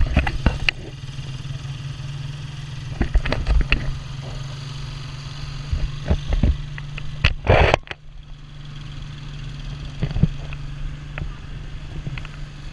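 Motorcycle engine of a Filipino tricycle running steadily under way, heard from inside the sidecar, with scattered knocks and rattles throughout.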